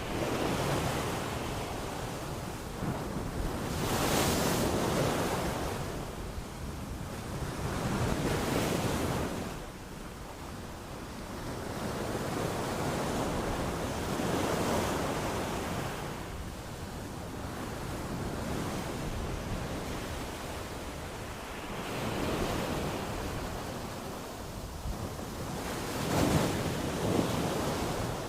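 Sea waves breaking and washing on a shore, a steady rush of surf that swells and ebbs every few seconds, with stronger breaks about four seconds in and near the end.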